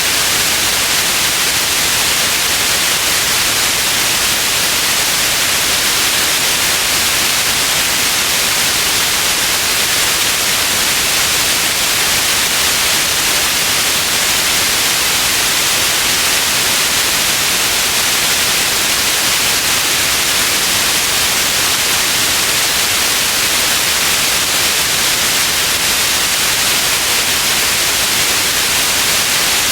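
Steady white noise: an even, bright hiss, most of its energy high up, with no changes.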